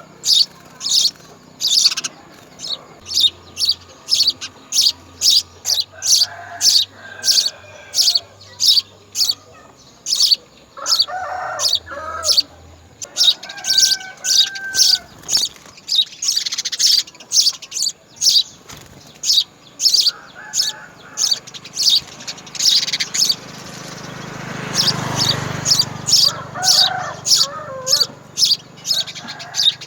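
House sparrow chirping in a steady, regular series of short, high chirps, about two a second.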